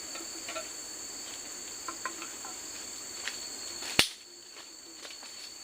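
Forest insects droning steadily in high, even tones, with scattered small clicks and one sharp knock about four seconds in.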